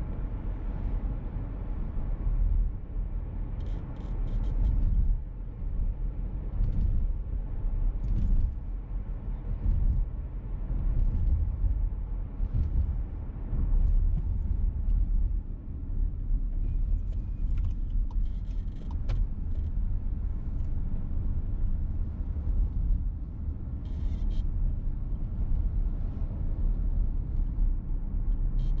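VW T-Roc petrol car driving with a steady low road and engine rumble, and a squeak in the car that comes and goes as short high-pitched chirps every second or two.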